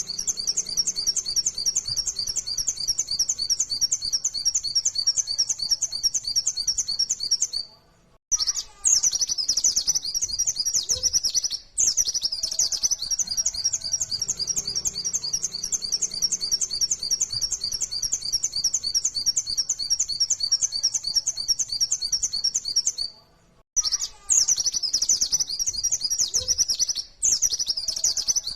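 Pleci (white-eye) song: long runs of very fast, high-pitched chirping notes repeated in rapid succession, broken twice by a short silent gap. The same sequence comes round again, as a looped recording does.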